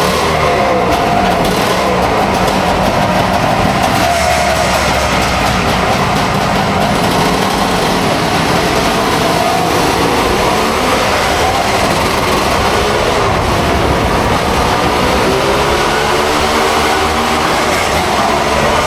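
Engines running in a steady loud drone, with slow rises and falls in pitch near the start and again near the end.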